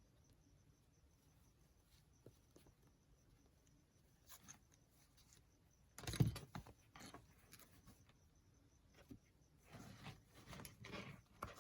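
Quiet handling sounds at a work table: near silence at first, then a sudden knock about six seconds in, followed by rustling, rubbing and light knocks near the end as materials are moved and handled.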